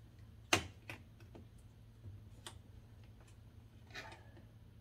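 A few sharp clicks and small ticks from a plastic clip on a Jeep Grand Cherokee's rear-door latch linkage being squeezed and worked through its hole. The loudest click comes about half a second in.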